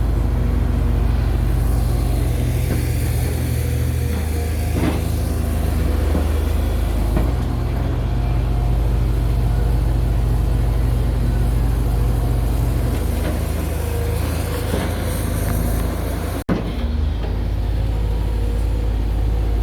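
Backhoe excavator's diesel engine running steadily under working load, its engine note shifting a few times as the machine is worked.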